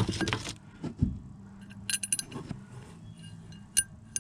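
Small metal parts and hand tools clinking and jangling as screws are handled and fitted. There is a rattle at the start, a dull knock about a second in, a quick run of light clicks around two seconds, and a couple of single clicks near the end.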